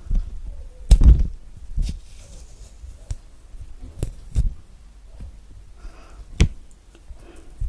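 A thick orange peel being pulled off by hand, tearing and snapping in irregular sharp pops and thumps, the loudest about a second in, with soft rustling of peel and fingers between them.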